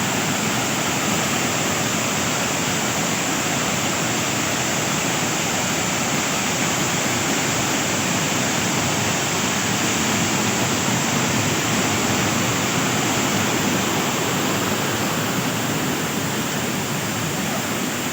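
Waterfall pouring steadily: an unbroken rush of falling water.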